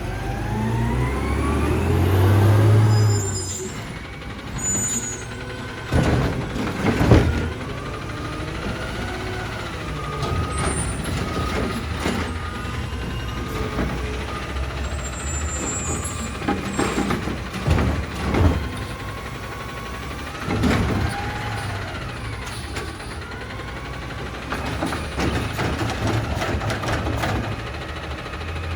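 Side-loader garbage truck at work: its diesel engine runs steadily, with a whine that rises and falls as the hydraulics work and several loud clanks a few seconds apart, typical of carts being lifted and dumped. There is a brief hiss, as from the air brakes.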